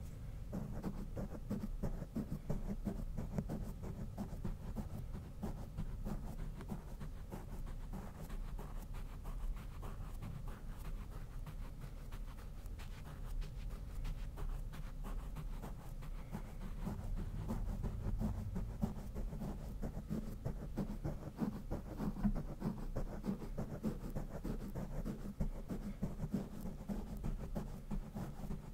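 Brush bristles rubbed rapidly and continuously against a microphone, giving a dense, bass-heavy scratching rustle with no pauses.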